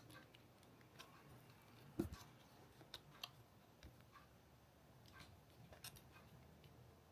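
Faint scattered clicks and light taps over near silence, the sharpest about two seconds in.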